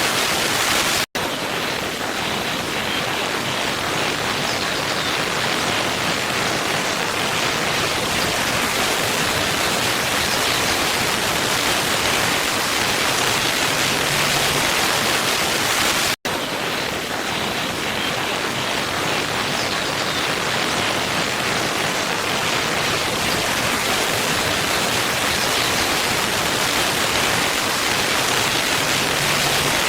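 Waterfall's steady rushing water, with no change in pitch or strength. The sound cuts out for an instant about a second in and again about halfway through, like the seam of a repeating loop.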